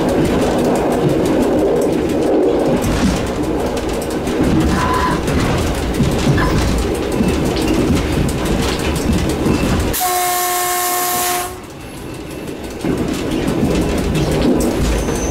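EN57 electric multiple unit running along the track, heard from the driver's cab, then one horn blast of about a second and a half, two-thirds of the way through; the running noise is briefly quieter after the horn and then builds again.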